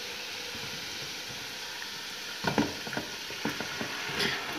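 Oil-based masala of garlic, ginger and red chilli sizzling in an aluminium pot with a steady hiss. From about halfway, a series of short knocks as a wooden spatula strikes and scrapes against the pot while boiled mustard greens are pushed in.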